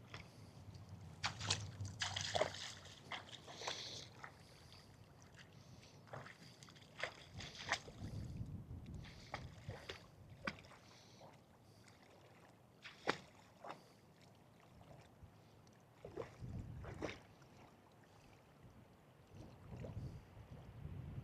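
Cane Corso splashing and wading through water after a thrown stick, with irregular sloshes and splashes.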